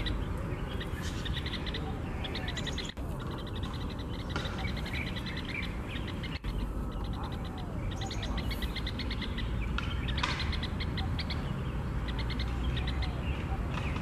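Birds calling: short runs of quick, high chirps repeated every second or two over a steady low rumble.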